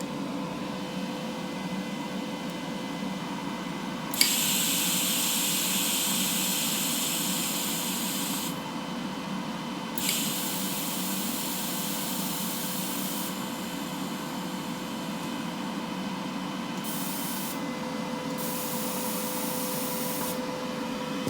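TIG welder shielding gas hissing out of the torch in several spells while the flow rate is being set, each starting sharply, the first two lasting about four seconds and two shorter ones near the end, over a steady machine hum.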